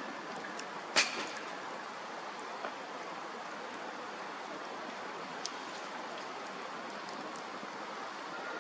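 Bonfire crackling: a steady hiss of burning wood with one sharp pop about a second in and a few fainter snaps later.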